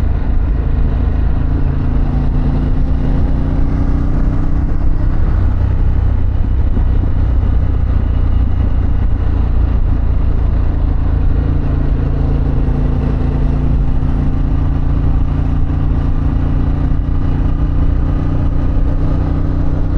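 Harley-Davidson Pan America's Revolution Max V-twin running at cruising speed through a Vance & Hines exhaust, its note drifting gently up and down with the throttle. It sits under a heavy, steady low rumble of wind and road noise.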